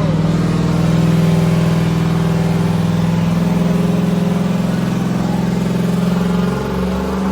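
Car engine held at high revs with a steady note for about six and a half seconds, then dropping off near the end.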